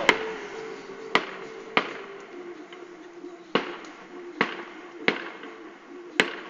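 Fireworks going off: a string of sharp bangs at uneven intervals, about seven of them, over a faint steady tone.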